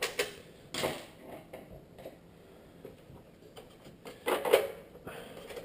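Hand tools clicking and knocking against a car headlight housing while a bolt inside it is being removed. The clatters come in a few separate short bursts, the loudest about four and a half seconds in.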